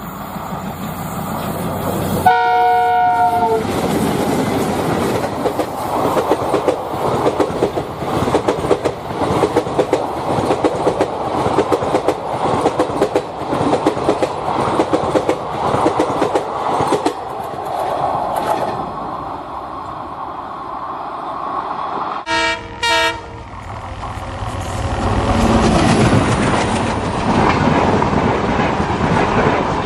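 A train horn sounds one held note about two seconds in, followed by a long rattling clatter of wheels running over rail joints. Near the end come two short horn blasts, then a low rumble.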